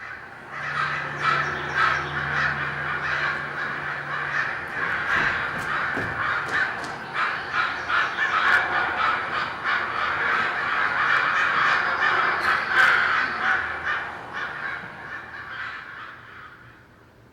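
A flock of birds calling over one another in a dense, continuous chatter, fading out near the end.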